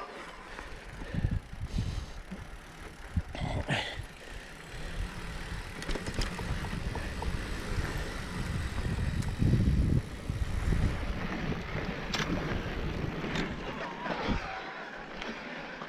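Haibike mountain bike riding over a rough, sandy trail: uneven tyre and wind rumble, with a few sharp knocks from the bike now and then.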